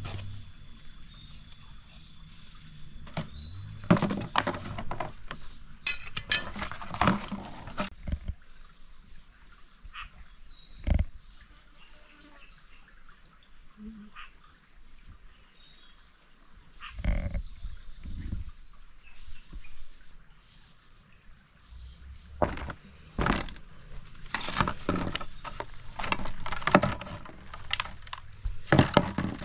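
A steady high-pitched insect chorus, with intermittent knocks and rustling clusters over it.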